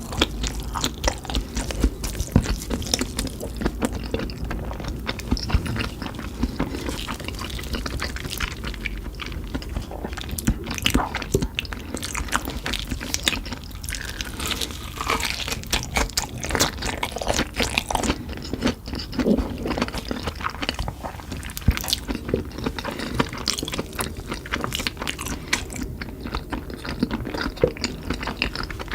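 Close-up chewing and crunching of Cheetos-crusted fried meat fingers: crisp, irregular crackles and bites with wet chewing between them.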